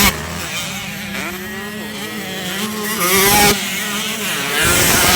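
Racing motorcycle engines revving, the pitch rising and falling, with sudden jumps in level a little after three and a half seconds and again near the end.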